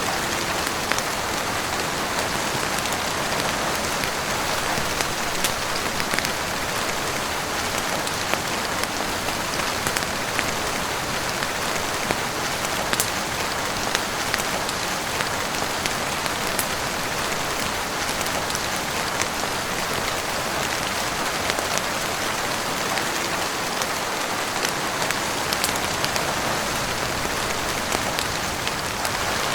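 Steady heavy rain falling on a roof, an even rushing hiss dotted with many small sharp ticks and pops.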